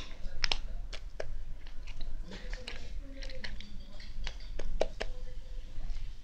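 Slime being squished and pressed by hand, giving irregular wet clicks and pops, several a second.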